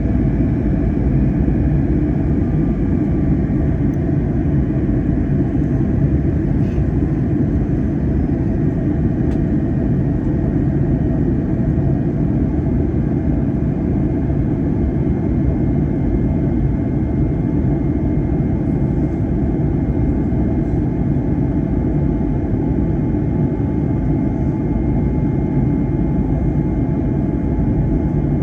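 Airbus A321 cabin noise: the steady drone of the engines and rushing air heard from inside the passenger cabin, with a few faint, steady higher tones over it.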